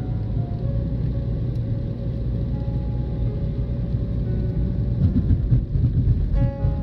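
Car driving, a steady low road and engine rumble, with music playing over it in held melodic notes.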